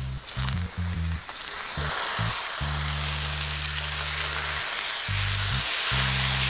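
Gar fillets frying in butter and garlic in a hot cast-iron pan: a steady sizzle that grows louder about a second and a half in. Background music with a pulsing bass line plays under it.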